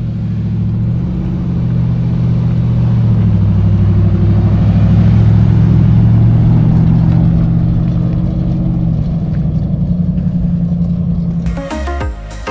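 A vehicle's engine running steadily as it drives, with a low rumble underneath. It grows louder toward the middle and eases off in the last few seconds.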